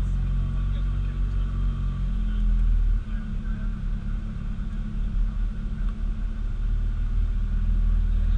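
A car's engine and exhaust running at low speed, a deep steady rumble. The note changes briefly about three seconds in.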